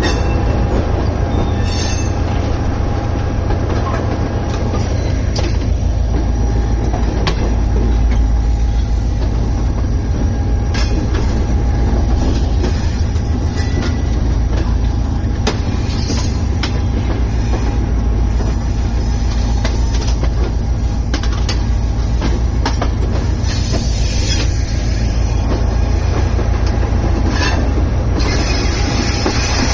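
Passenger train running on the track: a steady low rumble with scattered sharp clicks of the wheels over rail joints. Brief higher-pitched noise comes in twice near the end.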